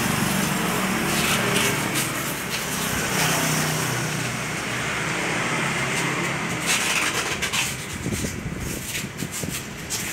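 Yamaha RX-King's two-stroke single-cylinder engine running through a sheet-metal 'udang lobster' racing exhaust, its pitch rising and falling with the throttle.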